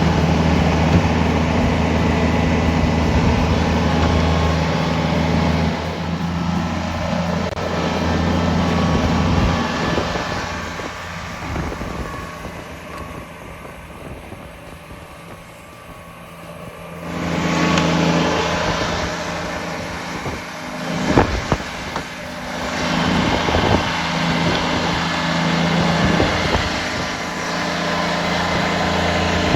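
Kubota BX23S compact tractor's diesel engine running steadily. It fades for several seconds midway and comes back loud, with a few sharp knocks a little after it returns.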